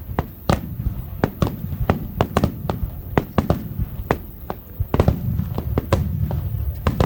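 Aerial firework shells bursting: a rapid, irregular string of sharp cracks and bangs, several a second, with a heavier low rumble building from about five seconds in.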